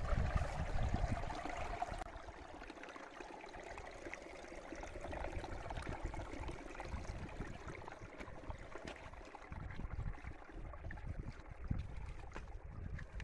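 Small waterfall and stream running: a steady, even rush of water, louder with a low rumble over the first couple of seconds.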